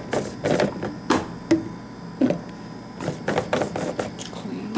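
Knocks and clacks from a Black & Decker coffee maker's parts being handled, about a dozen irregular hits.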